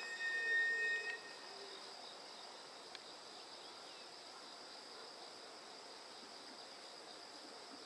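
A loud, high-pitched tone from a JR Central 313 series electric train sounds for about a second at the start and cuts off sharply. Behind it, and for the rest of the time, insects chirr steadily.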